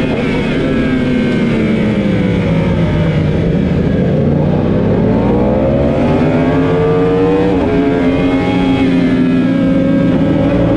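Yamaha R1's crossplane inline-four engine heard onboard at full race pace. Its pitch falls as the bike brakes and downshifts into a slow first-gear corner, then rises hard as it accelerates out. About seven and a half seconds in there is a quick drop in pitch at the shift into second, and then it climbs again.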